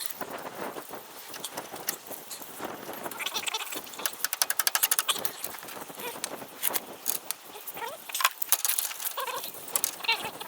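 Hand tools clinking and clicking against steel suspension parts, with a quick run of rapid clicks about four seconds in and a few short squeaks near the end.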